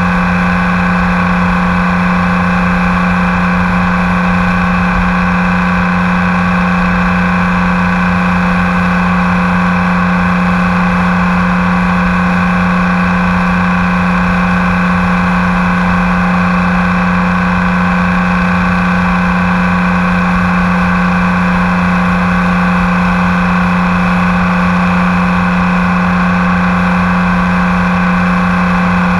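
BMW K1600 GTL's inline-six engine running at a steady highway cruise, its pitch holding constant throughout, over a low rush of wind and road noise.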